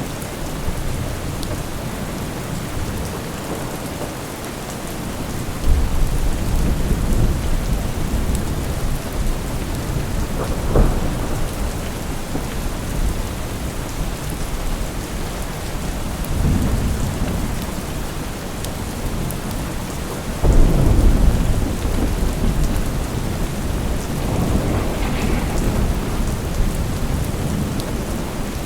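Steady rain falling, with rolling thunder: a deep rumble swells in about a fifth of the way through, a sharper crack comes near the middle, and another heavy rumble follows about two-thirds of the way in.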